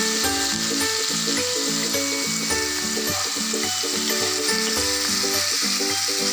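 Chicken pieces frying in hot oil in a pan: a steady, dense sizzle that stops abruptly just after the end, with background music of repeating low notes underneath.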